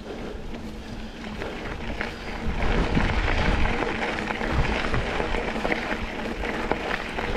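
Mountain bike rolling along a dirt double-track trail: tyre noise and rattling of the bike, with wind rumbling on the microphone, getting louder about two and a half seconds in.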